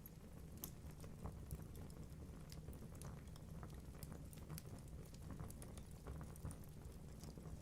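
Wood fire burning in a fireplace: a low steady rumble of flames with frequent sharp crackles and pops from the burning logs, fairly faint.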